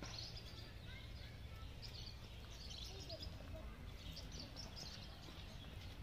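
Caged birds chirping in short clusters of high-pitched calls, several bursts a second or so apart, over a steady low background rumble.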